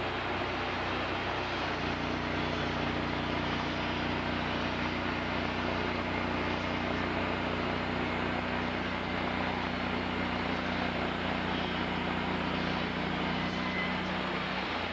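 A sawmill's engine running steadily under a broad mechanical noise. Its note shifts about two seconds in and changes again near the end.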